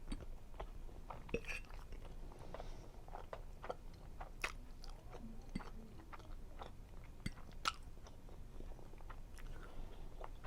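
Close-miked chewing of soft seafood pasta: irregular wet mouth clicks and smacks, a few every second.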